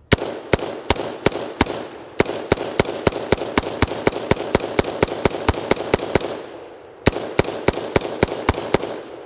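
BCM AR-15 firing 5.56 rounds in rapid, steady semi-automatic fire, three to five shots a second. There is a long string, a pause of about a second, then a shorter string. The rifle is uncleaned and unlubricated and is still cycling reliably while hot from sustained shooting.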